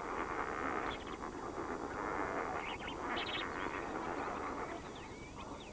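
Dense, steady chatter of a large flock of water birds calling together, with a few separate calls standing out near the end.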